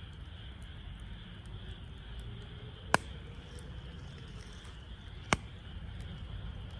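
Wood fire burning in a Snow Peak Takibidai L fire stand: a steady low rumble with faint small crackles, and two sharp loud pops from the burning wood, about three seconds in and again about two seconds later.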